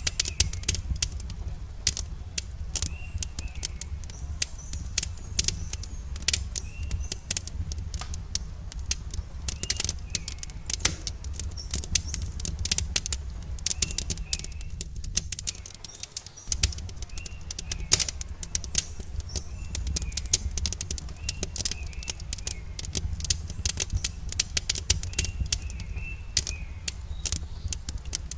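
Wood campfire crackling with many sharp, irregular pops and snaps over a steady low rumble, while small birds chirp repeatedly in the background.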